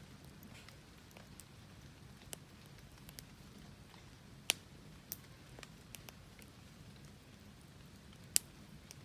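Wood fire burning with scattered sharp crackles and pops at irregular moments; the two loudest pops come about halfway through and near the end.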